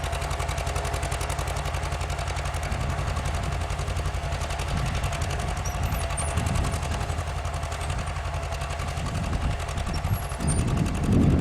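1948 John Deere B's two-cylinder engine popping out a fast, even exhaust beat as it pulls a two-bottom plow through wet clay under heavy load. It grows louder near the end.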